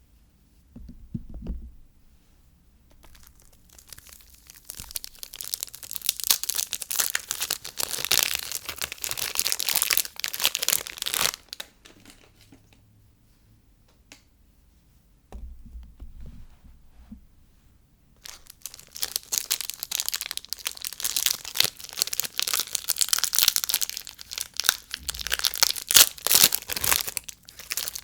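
Soap wrappers being torn open and crinkled by hand, in two long stretches of dense crackling with a pause between them. Soft low bumps of handling come about a second in and again in the middle.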